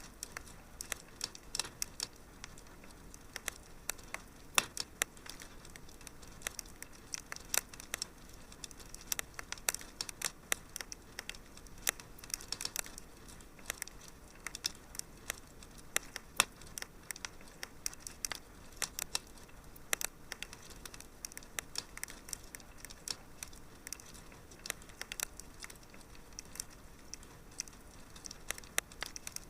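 Wood fire crackling in a fireplace: a soft steady hiss with irregular sharp pops and snaps, often several a second.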